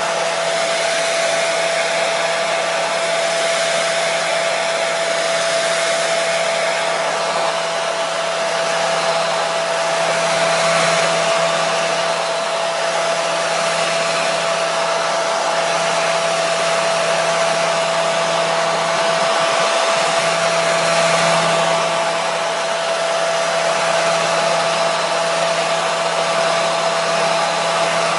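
Hair dryer running steadily: an even rush of blown air with a steady motor whine, played as white noise to settle a colicky baby.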